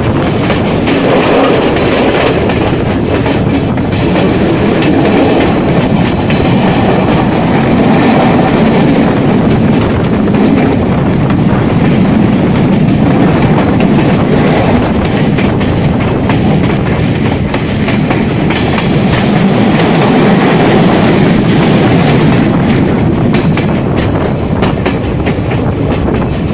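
Passenger train carriages running, heard from an open window: a steady rumble of wheels on the track with repeated clicking over rail joints and rushing air. A thin, high wheel squeal comes in near the end as the train takes a curve.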